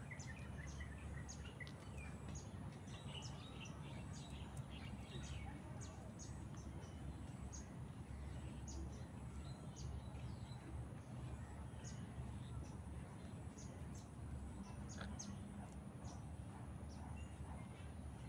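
Short, high bird chirps, scattered and irregular, over a steady low background hum.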